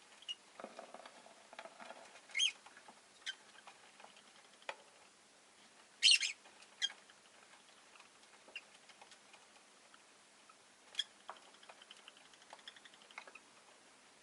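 Rosy-faced lovebird giving a few short, sharp chirps, the loudest about six seconds in, among small clicks and scratching sounds from the bird moving about its cage.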